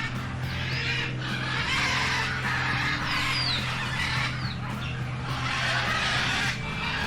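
Many birds calling: a run of harsh, noisy squawks, with a few short sliding whistles about halfway through, over a steady low hum.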